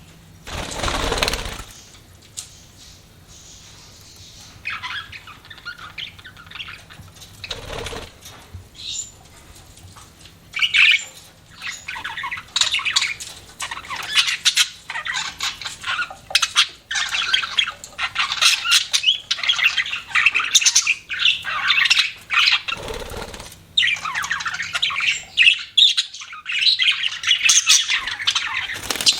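Pet budgerigars chirping and squawking, sparse at first and then a dense, continuous chatter from about ten seconds in. Three short rustling bursts break in, about a second in, near eight seconds and near twenty-three seconds.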